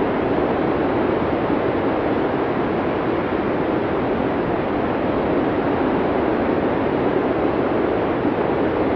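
Steady blizzard wind: an even, deep rushing noise with no gusts or separate sounds standing out.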